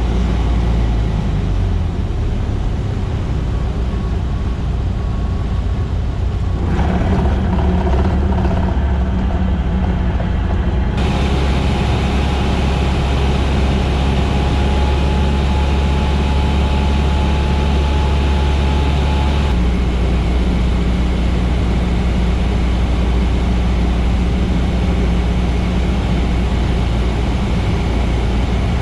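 Cessna 150's four-cylinder Continental O-200 engine and propeller droning steadily in flight, the tone shifting suddenly three times.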